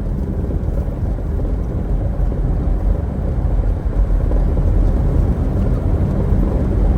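Subaru Outback driving, heard from inside the cabin: a steady low rumble of engine and tyre noise from the road, slowly getting a little louder.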